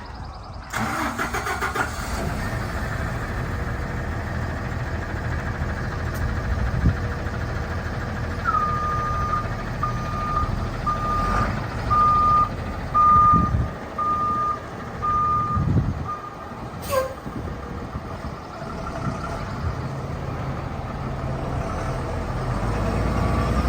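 A 2005 Ford F-750's Cummins diesel engine is started about a second in and then runs steadily at idle. In the middle, a high electronic beeper sounds about eight times, roughly once a second, and near the end there is a single click.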